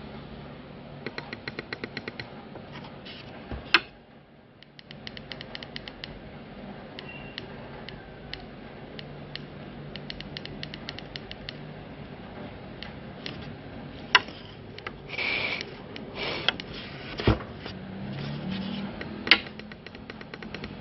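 Rapid runs of small clicks, about eight to ten a second, with a few single louder clicks and a brief rustle: the buttons of an iJoy Maxo Zenith vape mod being pressed over and over, trying to power on a mod that won't turn on.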